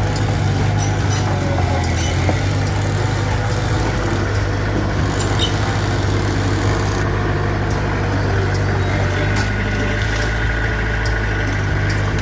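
Diesel engine of a Mitsubishi BD2F bulldozer running steadily under work, with scattered light clicks and clanks. A faint high whine joins about three quarters of the way through.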